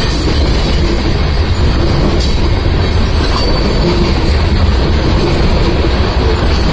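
Covered hopper cars of a freight train rolling past at close range: a loud, steady rumble of steel wheels on the rails.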